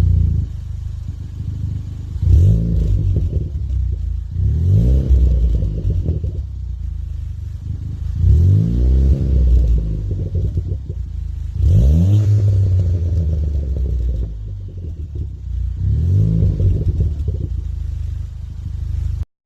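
Ford Fiesta ST180's turbocharged 1.6 EcoBoost four-cylinder through a Scorpion 3-inch turbo-back exhaust with sports cat and non-resonated cat-back, revved five times, each rev climbing in pitch and falling back to idle. The sound cuts off suddenly near the end.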